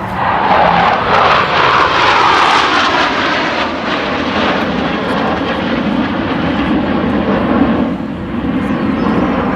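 Blue Angels F/A-18 jet flying past with a loud jet-engine roar that starts suddenly and falls steadily in pitch as it goes by.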